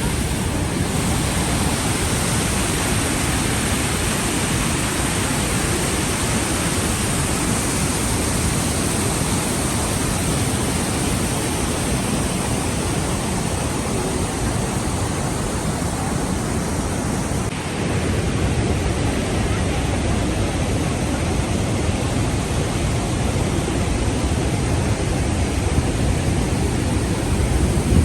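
Rhine Falls waterfall, a steady, loud rush of falling water, with a small shift in its tone about two-thirds of the way through.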